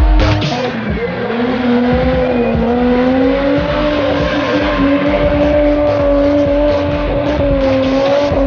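Car engine held at high revs in a burnout, its pitch holding steady with small wavers, over the hiss and squeal of spinning tyres. A music beat runs underneath.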